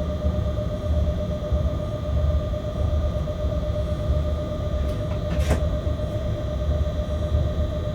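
Freight train cab noise while the train runs: a steady low rumble with several steady whining tones above it. There is one short, sharp click about five and a half seconds in.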